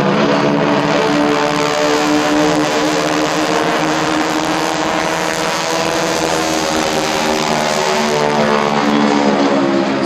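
Light propeller plane's piston engine running loud and close, its tone steady with a slight drop in pitch in the last few seconds.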